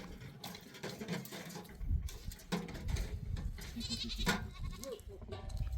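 Small livestock bleating: several short, quavering calls, the clearest about four seconds in, over a low rumbling noise.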